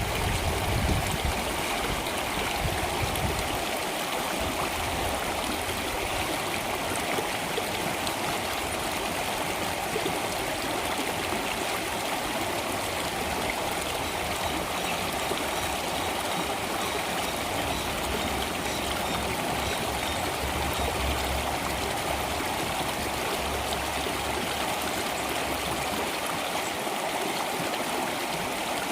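Water in a stream flowing steadily.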